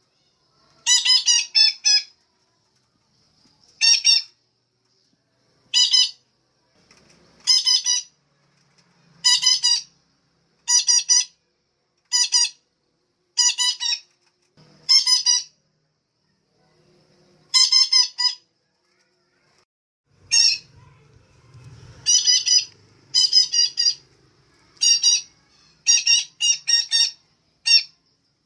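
Female betet parakeet calling: short, harsh squawks in clusters of two to four, repeated every second or two and coming more often near the end.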